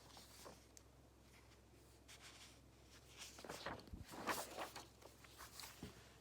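Faint scratching and tapping of a ballpoint pen writing on paper, busiest from about three to four and a half seconds in.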